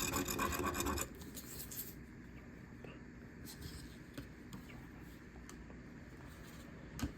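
Scratch-off lottery ticket being scraped with a metal bottle opener: fast rasping strokes that stop about a second in, followed by a few faint scrapes.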